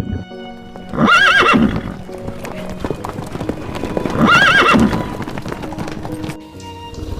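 A horse whinnying twice, each call just under a second long with a quavering pitch, over background music.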